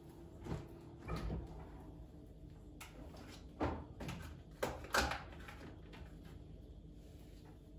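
Household handling sounds: a series of short knocks and clunks, about six in all, the loudest around the middle, like doors, drawers or things being handled during chores.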